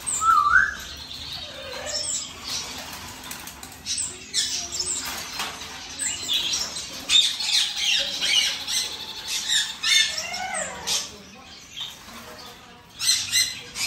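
Hand-fed baby parrots squawking and chirping in a string of short, harsh calls, busiest about halfway through.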